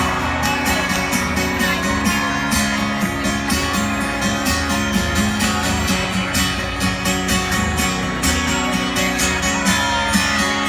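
Live country band playing a song's instrumental intro, led by guitar over a steady drum beat.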